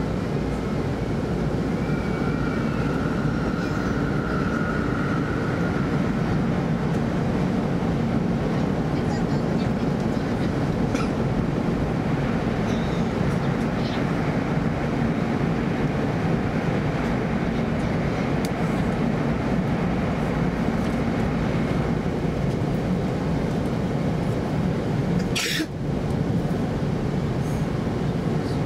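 Steady running noise inside an E2 series Shinkansen coach: a rumble of wheels on the rails and air around the train. About 25 seconds in there is one brief high hiss.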